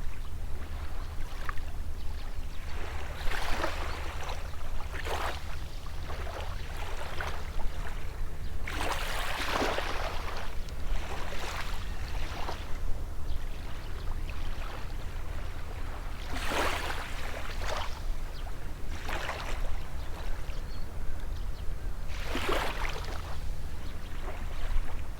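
Small sea waves breaking and washing up on the shore every few seconds, over a steady low rumble.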